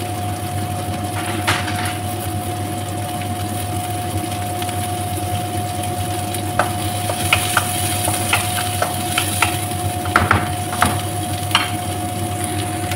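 Onion, garlic and chili sautéing and sizzling in an aluminium wok over a steady hum. From about halfway in, a wooden spatula stirs and scrapes against the pan in short irregular clicks.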